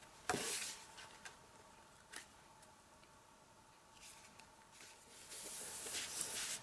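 Card stock being handled and pressed down: a brief paper rustle, a light tap about two seconds in, and a longer soft rustle near the end.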